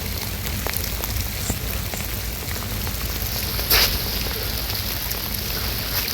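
Steady crackling patter of wet snow falling, over a low rumble of wind on the microphone, with a short rustle about four seconds in.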